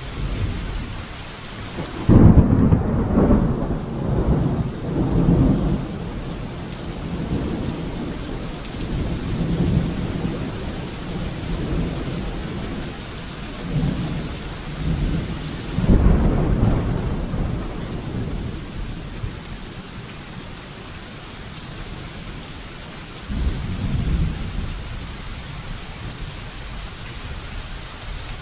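Steady rain with thunder: a loud thunderclap about two seconds in that rolls on for several seconds, another sudden one about halfway through, and a shorter, softer rumble near the end.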